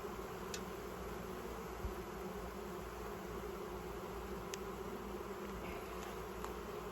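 Honey bees buzzing steadily around an open hive during a frame inspection, a continuous hum with a few faint clicks.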